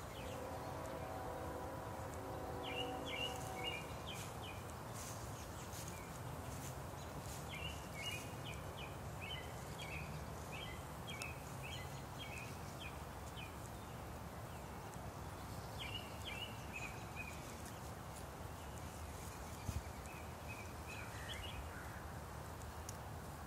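Yard ambience with a small bird chirping in quick series of high notes, four or five times, over a faint steady background noise. A steady hum of several pitched tones runs under it and stops about four seconds in.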